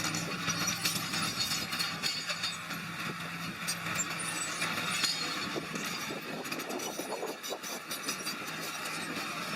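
Small bulldozer working, its diesel engine running with steady clanking and rattling from the tracks and moving stone; the engine drone fades about halfway through while the clatter goes on.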